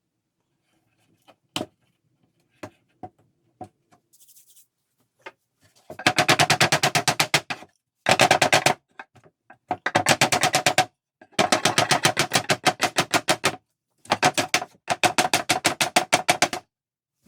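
A few light knocks, then about six seconds in a rapidly pulsing tool starts and runs in six bursts of one to two seconds each, a fast, even rattle of strokes.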